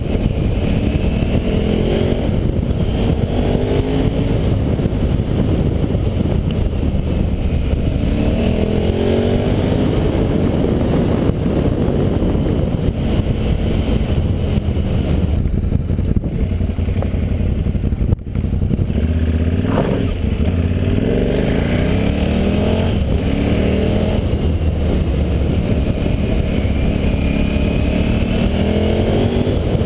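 KTM 990 Supermoto's V-twin engine running under way, its pitch climbing and dropping several times as the bike accelerates and changes gear.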